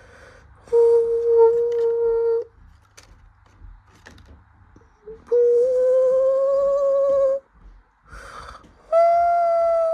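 A voice humming three long held notes, the second rising slowly in pitch and the last pitched highest.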